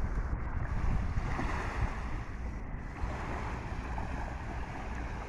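Strong wind buffeting the microphone with a heavy, uneven low rumble, over the steady wash of water.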